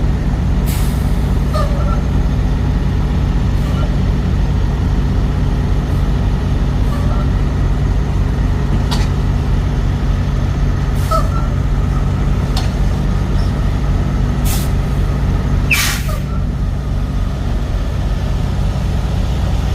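Truck engine running steadily with a low, even drone. A few short clicks are heard over it, and a brief hiss comes about sixteen seconds in.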